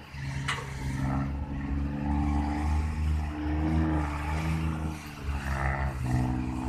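Large diesel engine of heavy earthmoving equipment running steadily, its pitch rising and falling a little.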